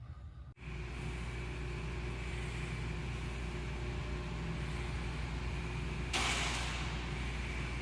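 Steady mechanical rumble with a rushing noise and a faint steady whine, starting abruptly about half a second in, with a short hiss about six seconds in.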